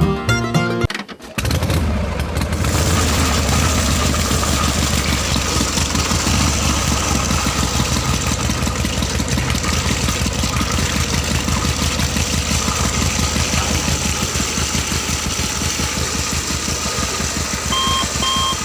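Small engine of a DIY mini tractor starting up about a second in, then running steadily with a rapid, even pulse. Near the end a beep starts, repeating about twice a second.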